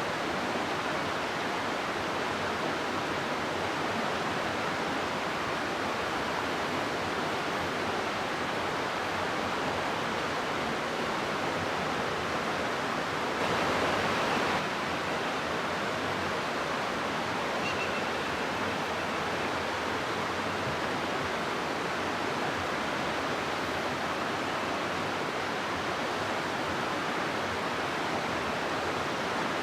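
River water rushing steadily through a rocky gorge, a dense even hiss with a brief louder surge about halfway through.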